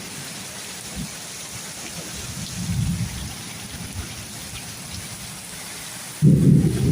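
Steady rain falling hard in a thunderstorm, with low rumbles now and then; a loud one starts suddenly near the end.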